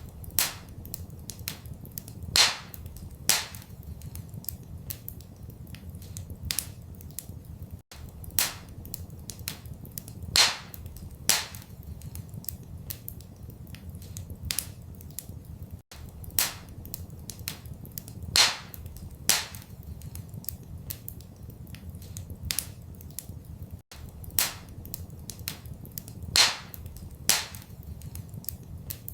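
Wood fire crackling in a fireplace: sharp, irregular pops and snaps, a few louder than the rest, over a steady low rumble. The same eight-second stretch of crackles repeats over and over.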